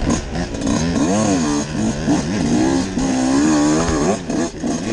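Enduro motorcycle engine revving up and down, its pitch rising and falling several times as the throttle is worked on a dirt trail climb.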